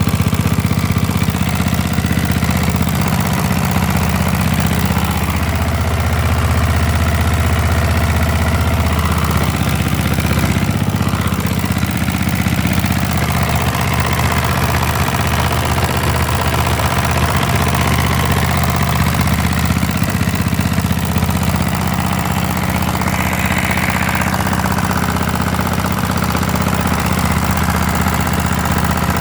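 Hatz diesel engine running steadily at a constant speed.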